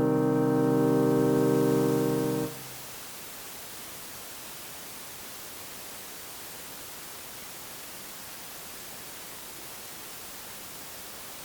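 An electronic keyboard's piano voice holds a chord that stops abruptly about two and a half seconds in. After that only a steady hiss remains: line noise from the keyboard's output cabled straight into the camera, loud in the silence between pieces.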